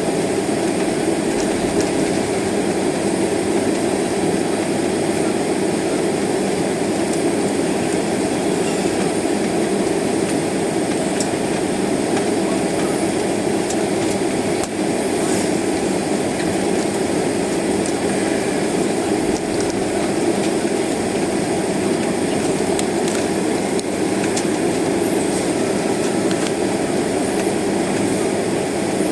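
Steady cabin noise inside a jet airliner taxiing: the engines at taxi power and the cabin air supply make a constant rumbling hiss, with a few faint ticks.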